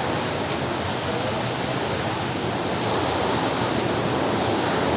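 Steady rush of a small waterfall pouring over rocks, an even wash of water noise.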